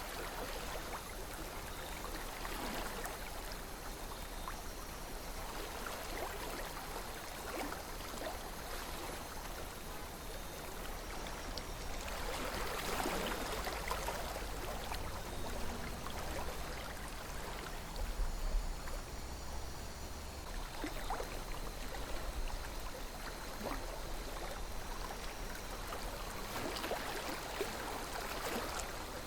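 A calm river flowing: steady rushing and gurgling water that swells a little about halfway through and again near the end, over a low rumble.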